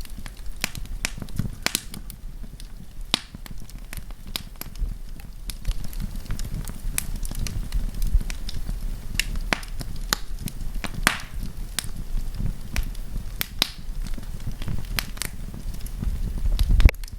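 Wood fire crackling, with sharp irregular pops and snaps over a low, steady rumble of the flames. Near the end a low rush swells up briefly, louder than the crackling, and stops abruptly.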